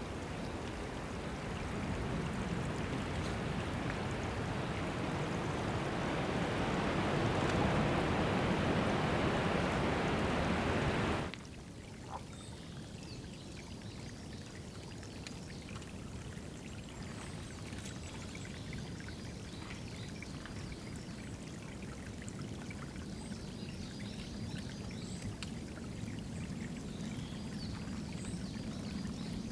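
Water trickling and pouring steadily into a small woodland drinking pool. About 11 seconds in it cuts off suddenly to a much quieter stretch with a fainter water sound and scattered faint high chirps.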